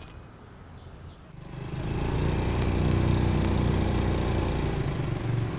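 Small motorbike engine coming in about a second in and running steadily at idle.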